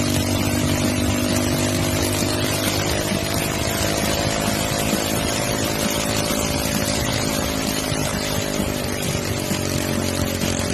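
An engine running steadily at an even pitch that sags a little through the middle, under a constant rushing noise.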